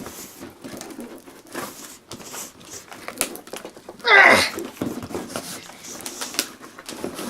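Packing tape and parcel wrapping being crinkled and torn by hand, with scattered small rustles and clicks. About four seconds in, a short loud vocal sound falls in pitch.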